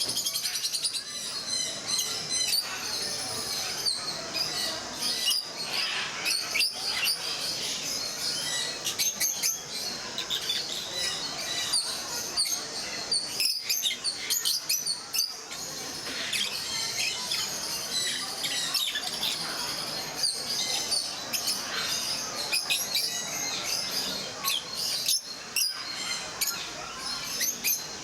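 A flock of rosy-faced lovebirds chirping constantly, many short high-pitched calls overlapping.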